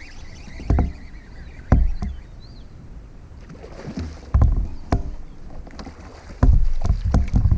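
Kayak on the water: irregular knocks and splashes on and around the hull. Sharp thumps about one and two seconds in, more about four and a half seconds in, and a close run of them near the end.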